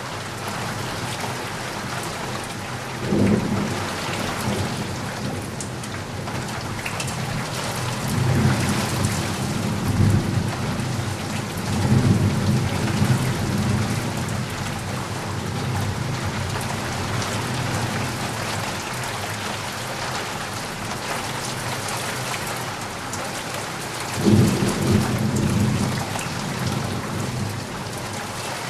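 Steady rain pattering, with low rolls of thunder: one a few seconds in, a longer stretch of rumbling through the middle, and another near the end.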